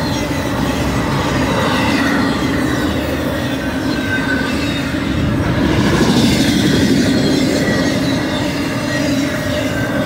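BNSF intermodal freight train's trailer-laden flatcars rolling past at speed: a steady, loud rumble of steel wheels on the rails.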